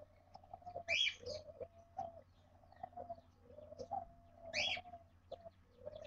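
Bird calls in an aviary nest box holding cockatiel and budgie chicks with an adult budgie: short low curved notes repeating about once a second, and two loud, sharp high chirps, one about a second in and one past the middle.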